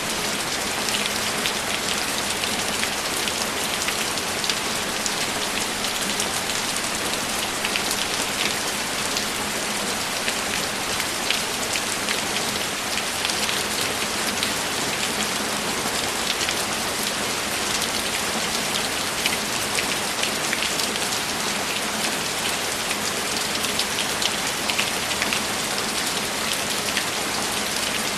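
Steady rain falling, a dense, even hiss with countless individual drops ticking through it.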